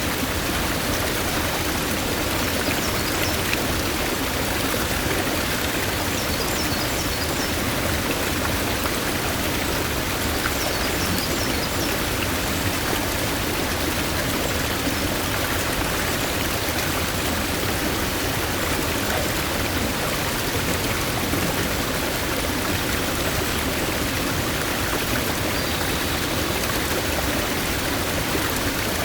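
Forest stream rushing steadily over rocks, an even wash of flowing water. Faint high bird chirps come in short runs a few times, and a brief call sounds near the end.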